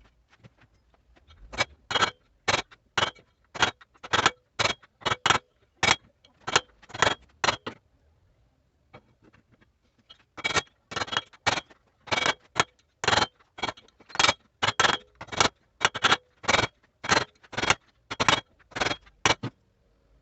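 Repeated short scraping strokes, about two to three a second, in two runs separated by a pause of about two seconds.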